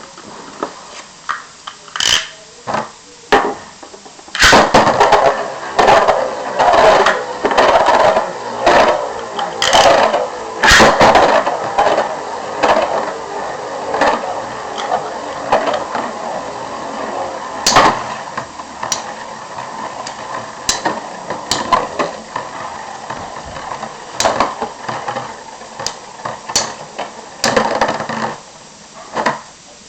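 Two Metal Fight Beyblade tops, MeteoLdrago LW105LF and LightningLdrago 100HF, clashing as they spin. A rapid run of sharp metal-and-plastic collisions starts about four seconds in, then thins to scattered knocks that stop near the end.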